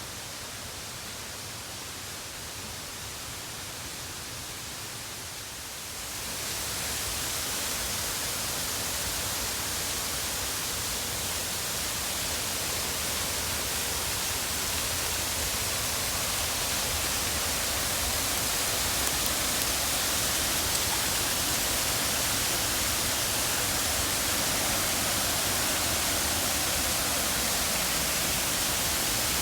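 Waterfall's falling water, a steady rushing noise that grows louder about six seconds in and keeps building slowly.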